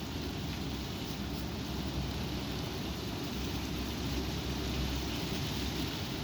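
Strong wind rushing and buffeting the microphone, a steady low rumbling noise.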